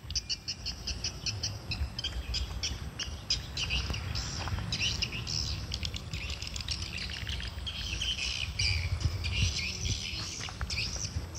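Small birds chirping, with many short, quick calls repeating throughout, over a low, steady background rumble.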